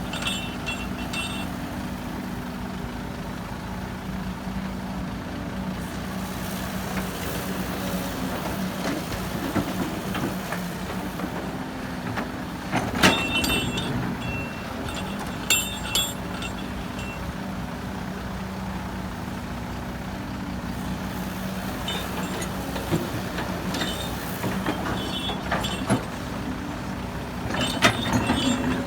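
Heavy diesel machinery engine running steadily, with a few sharp knocks and squeals about halfway through and again near the end.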